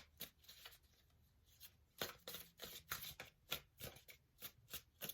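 Tarot cards being shuffled by hand: faint, quick card flicks, a few at first, then a steady run of about three a second from about two seconds in.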